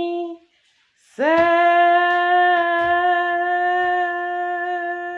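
A female voice singing long held notes on one steady pitch, a drawn-out "princess". One note ends just after the start, and about a second in another scoops up and is held.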